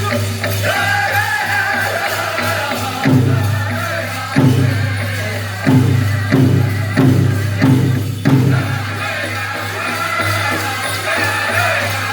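A powwow drum group singing high-pitched vocals over a big powwow drum. Several loud drum strokes stand out from about three seconds in, with a quick run of five near the middle.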